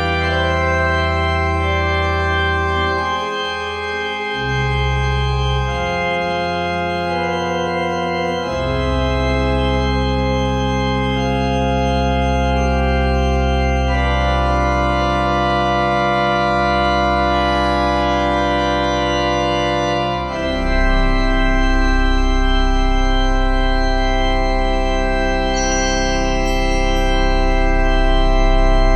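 Church organ playing slow, sustained chords over a deep bass, the harmony changing every few seconds.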